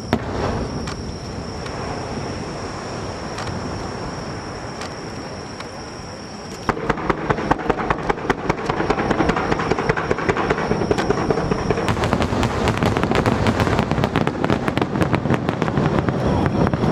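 Fireworks display: a steady low rumble of bursts, then about six and a half seconds in a dense volley of sharp crackling reports starts and keeps going.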